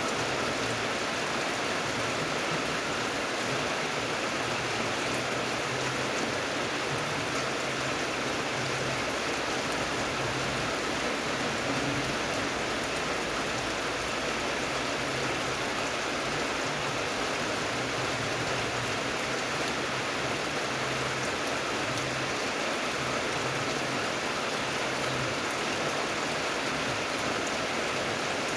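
Steady rainfall, an even hiss of rain without a break or change.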